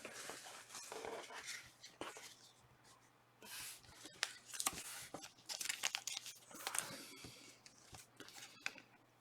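Panini Prizm soccer card pack wrappers being torn open and crinkled, in irregular short scratchy bursts.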